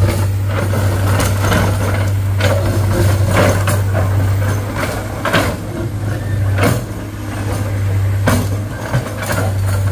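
Heavy diesel engine running steadily under a constant low drone, with irregular sharp knocks and clatter every second or so.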